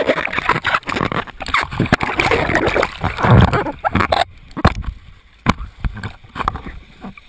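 Water splashing and sloshing for about four seconds, then dropping away to a quieter stretch broken by a few sharp knocks.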